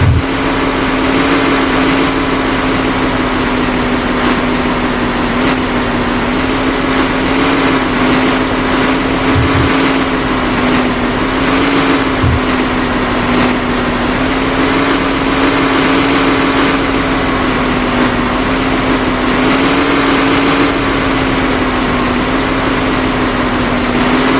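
Diesel engine of earthmoving machinery running at a steady speed, giving an even, unbroken hum.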